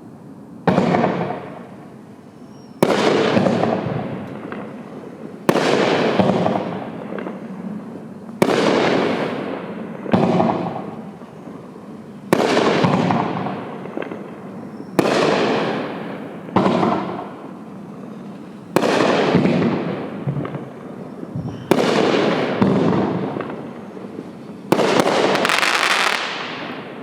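A No Name Fireworks "Nightlight" consumer firework firing a series of about eleven shots, one every two to three seconds. Each shot starts with a sudden report followed by a hissing crackle that fades over a second or two. The last two come in quick succession near the end.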